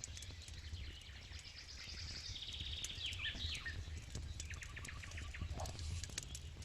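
Campfire crackling with scattered sharp pops, over a steady low hum, while birds sing, one giving a fast trill and a few falling chirps about two to three seconds in.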